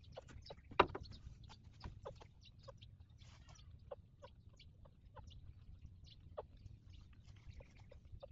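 Newborn puppies suckling: a run of short, irregular wet smacking and sucking clicks, with one louder click about a second in.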